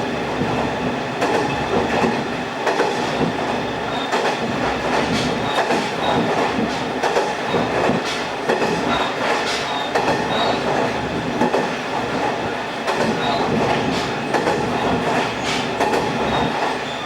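Kumagawa Railway diesel railcar running along the line: a steady running noise with irregular clicks of the wheels over rail joints and short faint high squeals now and then.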